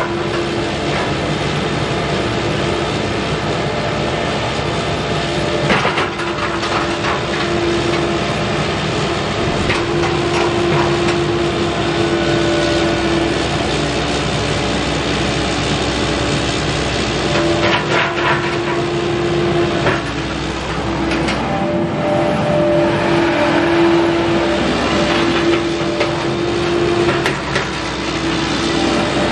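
CAT 308E mini excavator's diesel engine running while its hydraulics are worked, a steady whine coming and going as functions are operated, cycling hydraulic fluid through the system. A few clanks of the machine break in.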